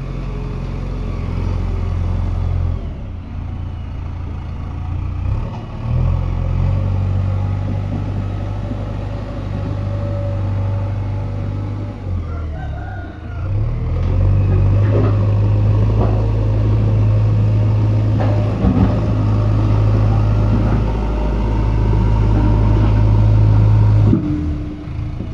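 JCB backhoe loader's diesel engine running, its deep steady note shifting up and down several times as it works and running louder from about halfway through.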